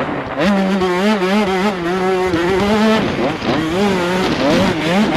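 85cc two-stroke motocross bike engine revving hard, its pitch wavering up and down as the throttle is worked. In the last couple of seconds it shifts to quicker rises and falls in pitch.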